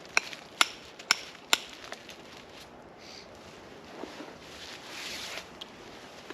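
Dry wood cracking: four sharp cracks about half a second apart in the first two seconds, then a short rustle about five seconds in.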